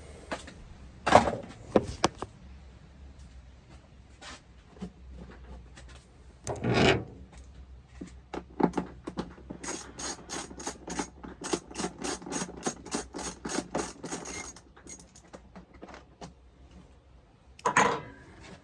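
Hands working on a dirt bike's airbox to take out a dirty air filter: scattered knocks, scraping and rubbing of plastic and foam, with a louder scrape about seven seconds in and a quick run of sharp clicks from about ten to fourteen seconds in.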